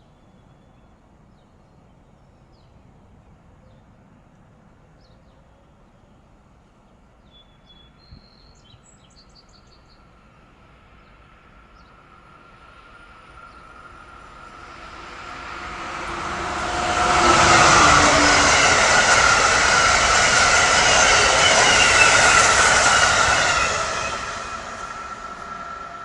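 Electric passenger train on the Northeast Corridor approaching and passing at speed: the noise builds slowly over several seconds, is loud for about six seconds with a steady whine running through it, then drops off quickly as the train goes by.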